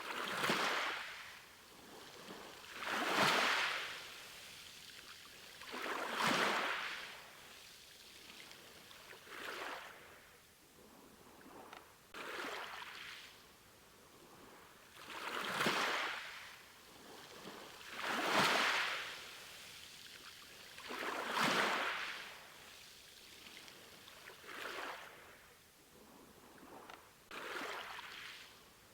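Sea waves washing in, one after another about every three seconds, each swelling up and fading away, with a quieter hiss of water between them.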